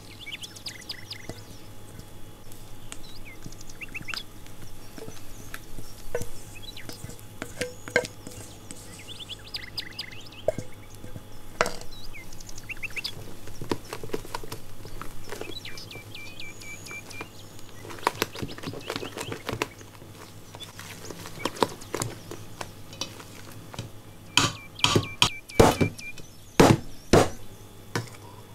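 Spatula folding cake batter in a stainless steel bowl, with soft scrapes and scattered knocks against the metal, and a run of loud sharp clinks near the end. Birds chirp now and then in the background.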